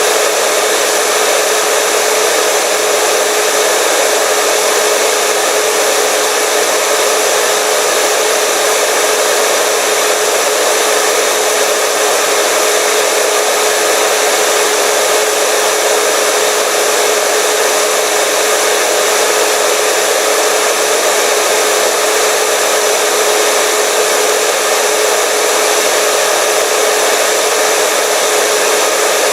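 Hair dryer running steadily: an even rush of blowing air with a constant motor hum.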